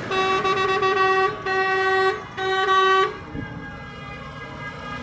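Vehicle horn sounding three blasts in a row, one steady tone: a longer first blast, then two shorter ones, over a background of running engines.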